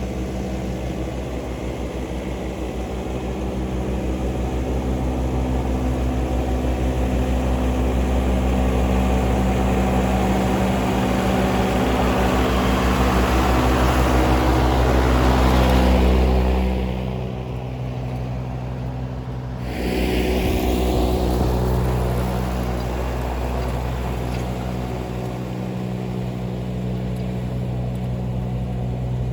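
John Deere 3039R compact tractor's three-cylinder diesel running steadily under load, with its mid-mount mower deck cutting tall wet grass. The sound swells gradually, drops off for a few seconds about two-thirds of the way through, then comes back and settles.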